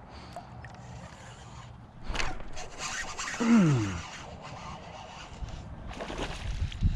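Scraping and rubbing against a kayak, with a short groan falling in pitch about three and a half seconds in and more scraping near the end.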